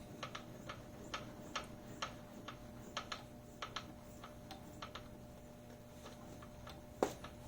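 Light, irregular ticking and clicking, a few clicks a second with one louder click near the end, as the table of a small manual milling machine is cranked by hand to bring the dial indicator back along the vise jaw. A faint steady hum runs underneath.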